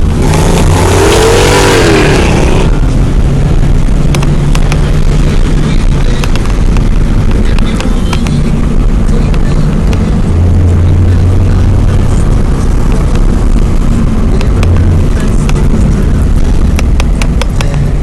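Mercedes-Benz C55 AMG's V8 engine and exhaust running while driving, a steady low drone, with a brief swell that rises and falls in pitch in the first couple of seconds.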